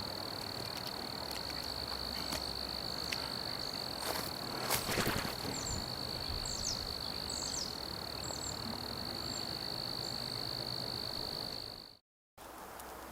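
An insect's steady, high, unbroken trill, with a few short bird chirps and a brief patch of clicks about five seconds in. The sound cuts out suddenly near the end.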